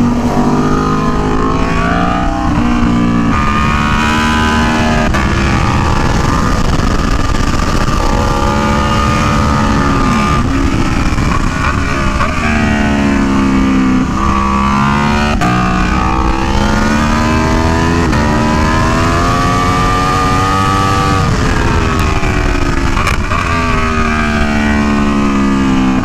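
Aprilia Tuono V4 1100 Factory's V4 engine at full track pace, pulling hard through the gears. Its pitch climbs and drops again and again, with sudden drops at gear changes and longer sweeps down under braking.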